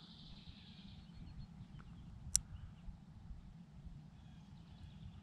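Faint outdoor pond ambience: a bird trilling high and faintly near the start and again near the end over a low wind rumble, with one sharp click about two and a half seconds in.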